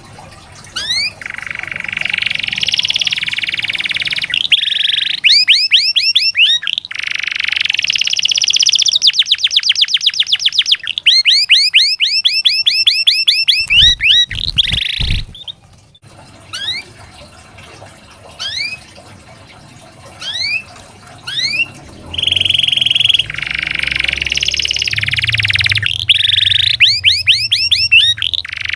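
Domestic canary singing a long, loud song of quick rising whistles and fast trills of rapidly repeated notes, in phrases broken by short pauses. A few low thuds about halfway through, followed by a quieter stretch of scattered rising notes before the full trills return.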